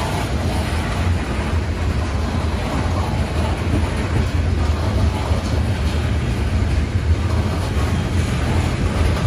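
CSX freight train running by with a steady low rumble.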